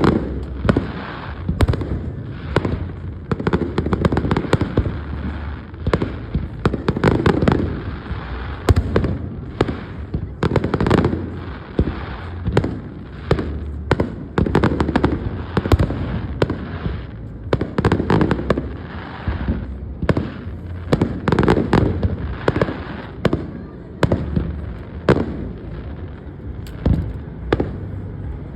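Fireworks going off in a long barrage: rapid sharp bangs and crackles one after another over a continuous low rumble of booms.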